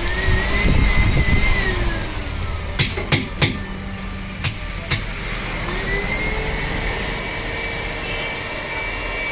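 A small electric motor whines as it speeds up, holds speed and slows down. A few sharp clicks and knocks follow, then the motor speeds up again and runs at a steady pitch.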